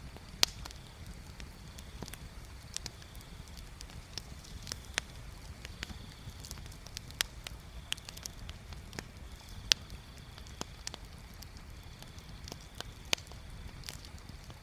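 Wood fire crackling, with irregular sharp pops of burning wood over a low steady rumble. The loudest pops come about half a second in, near ten seconds and around thirteen seconds.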